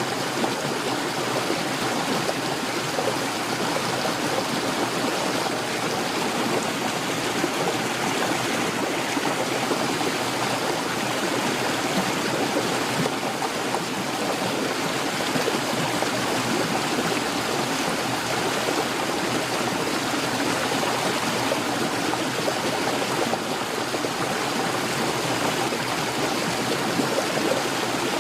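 Heavy rain pouring steadily, an even hiss with no thunder in this stretch.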